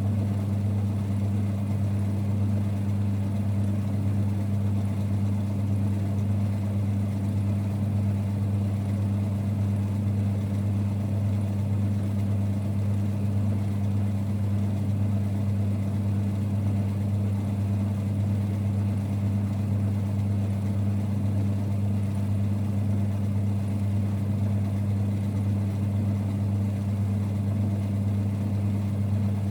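1946 Boxford lathe running at a steady speed, a constant low hum with no change in pace.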